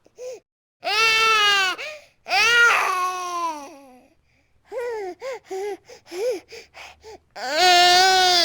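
Infant crying: two long wails, then a string of short broken cries, then another long wail near the end.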